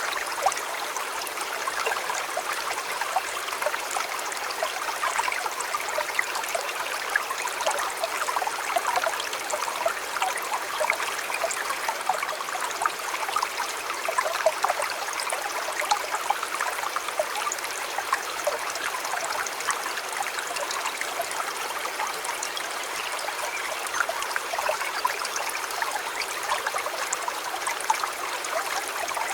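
River water flowing steadily over stones, a continuous rush dotted with many small splashes and gurgles.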